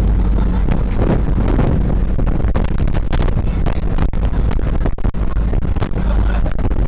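Boat engine running steadily, with strong wind buffeting the microphone.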